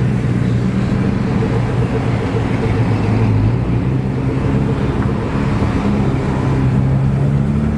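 Car engine running steadily with a low hum that holds its pitch, shifting slightly near the end.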